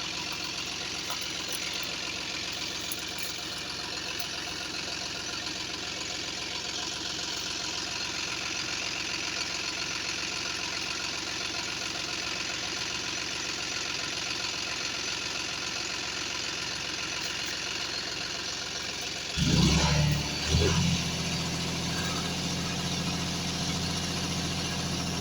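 John Deere 5105 tractor's three-cylinder diesel engine running steadily. About 19 seconds in the engine note suddenly becomes much louder and deeper, dips briefly about a second later, then holds at the louder level.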